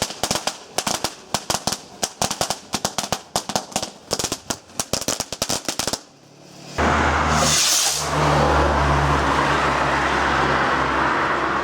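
Garden firework crackling: a rapid, irregular string of sharp cracks for about six seconds that then stops. After a short pause comes a loud, steady rushing noise with a low hum beneath it, and a brief hiss in it about eight seconds in.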